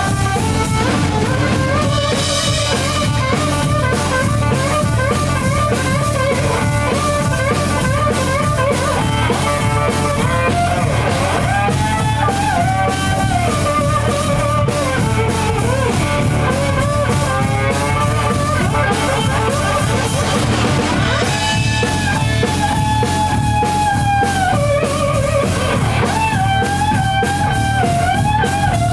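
Blues-rock band playing an instrumental stretch: an electric slide guitar plays bending, gliding lead lines over a steady drum kit beat.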